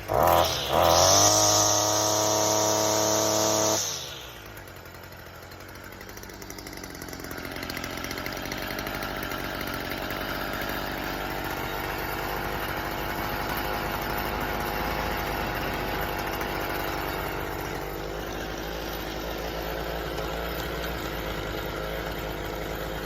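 STIHL FS55R string trimmer's small two-stroke engine revved up and held at full throttle for about three seconds, then dropping back to a steady idle. It now reaches full throttle with the carbon-clogged spark arrestor cleared and a fresh tune-up.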